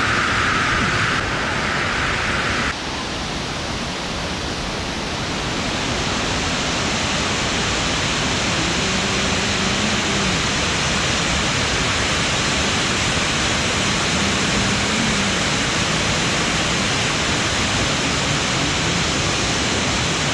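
Waterfall rushing: a loud, steady roar of falling water. Its sound changes abruptly twice in the first three seconds.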